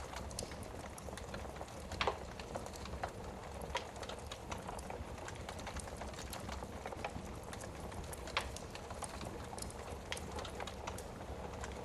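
Wood fire crackling in a fireplace: irregular pops and snaps over a steady low rumble, with louder pops about two seconds in and again about eight seconds in.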